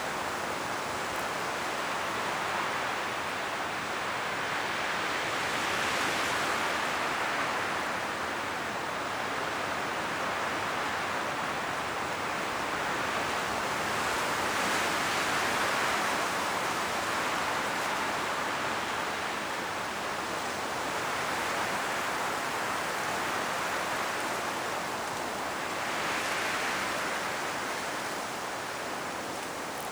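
Strong wind blowing through forest trees, rustling the autumn leaves in a steady rush that swells in slow gusts, loudest about six, fifteen and twenty-six seconds in.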